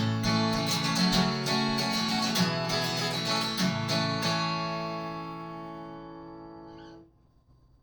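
Song's instrumental ending on acoustic guitar: strummed chords, then a final chord that rings and slowly fades before cutting off about seven seconds in.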